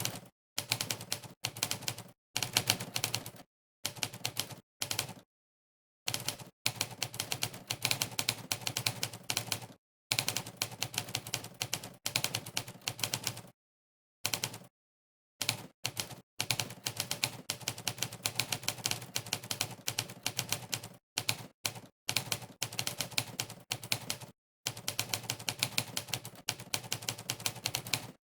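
Monkeytype's 'typewriter' keypress sound effect, one typewriter clack per key, in quick runs of fast typing. The runs break off several times into short pauses of dead silence.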